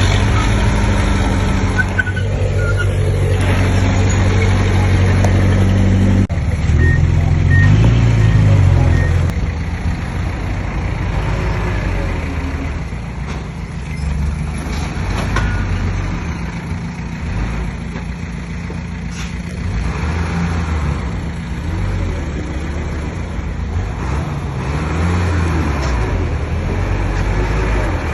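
Komatsu D20P bulldozer's diesel engine working, its pitch rising and falling with the throttle; louder for about the first nine seconds, then lower.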